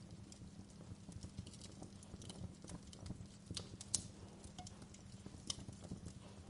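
Wood fire crackling: irregular small pops and snaps over a low steady rumble, with one sharper pop about four seconds in.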